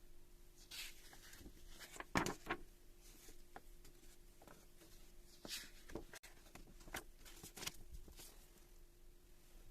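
Tools and parts being handled on a workbench: scattered light clicks and knocks at irregular intervals, over a faint steady hum.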